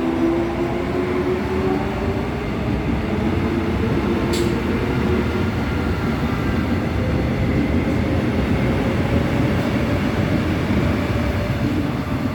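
Seoul Metro Line 4 electric multiple-unit train pulling away, its traction motors whining in several rising tones as it gathers speed, which then give way to a steady rolling rumble of wheels on track. A single brief sharp click comes about four seconds in.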